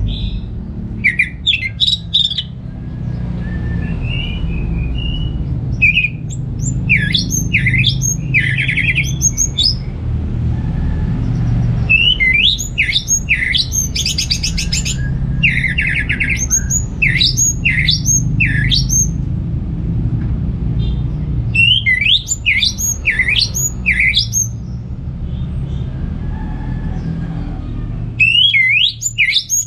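Orange-headed thrush (anis merah) singing in bursts of fast, sweeping whistled notes. The phrases last a few seconds each with short gaps between them, and a brief buzzy rattle comes midway, over a steady low hum.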